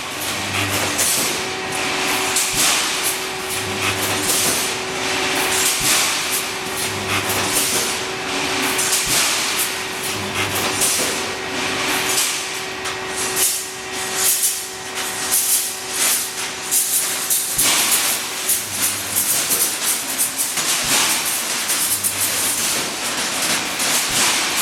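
Pneumatic resistance-welding mesh machine running its cycle: clanking of metal parts and hissing air from the pneumatic cylinders, with a short electrical hum from the welding transformers about every three seconds as each cross wire is welded.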